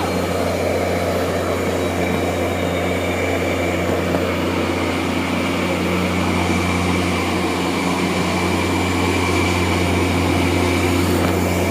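EMD F59PH diesel locomotive running steadily while its train stands at the station, a constant low drone.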